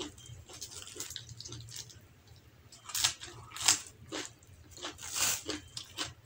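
Close-miked eating: irregular wet chewing and crunching of fresh lettuce leaf and hand-fed rice, with louder crunchy bites about three seconds in and again about five seconds in.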